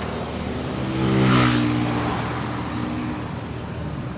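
A motor vehicle passes close by on the road: its engine note and tyre hiss swell to a peak about a second and a half in, then fade, over steady traffic noise.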